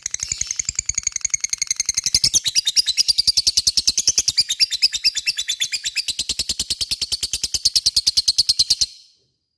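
A lovebird's long ngekek call: a very fast, even chattering train of sharp high-pitched notes that cuts off abruptly about nine seconds in.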